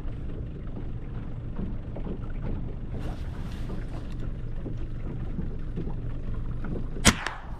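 A single rifle shot near the end, sharp with a short ringing tail, over the steady low rumble of the boat on the water. It is a shot at a seal, which it wounds.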